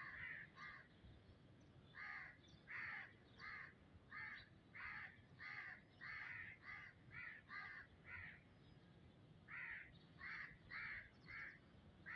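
A bird calling in a long series of short, harsh, crow-like caws, about one or two a second, with a brief pause about two-thirds of the way through. The calls are faint.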